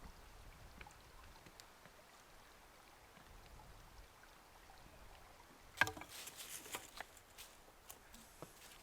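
Faint steady outdoor background, then about six seconds in a sharp knock followed by irregular rustling and crunching, as of movement through dry autumn leaf litter.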